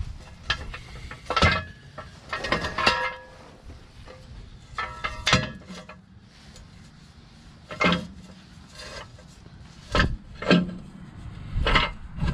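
Irregular metallic clanks and clinks of hand tools and brake parts being handled, some ringing briefly, about a dozen knocks in all, over a low wind rumble.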